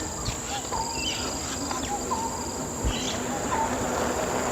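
Steady high-pitched insect buzzing from the surrounding greenery, with short bird chirps repeating every second or so.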